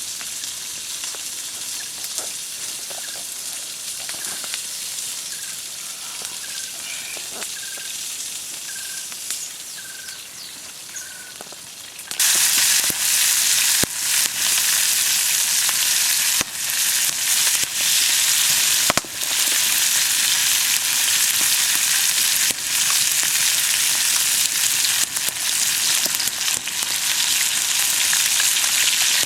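Food frying in hot oil, a steady sizzle with crackles and pops. About twelve seconds in, the sizzle jumps abruptly much louder. In the quieter first part a short high chirp repeats about once a second.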